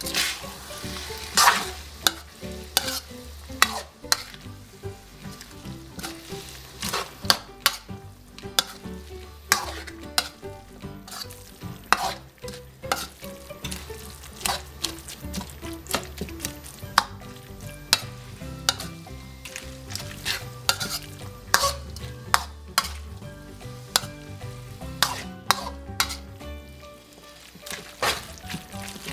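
Metal spatula scraping and clinking against a metal wok, over and over, while glass noodles, pork, egg and bean sprouts sizzle in oil as they are stir-fried until the vegetables wilt.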